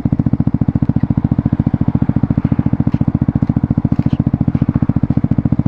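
Single-cylinder 125cc motorcycle engine (Suzuki GSX-S125 with a Mivv GP Pro exhaust) idling steadily, its exhaust pulsing evenly at about a dozen beats a second.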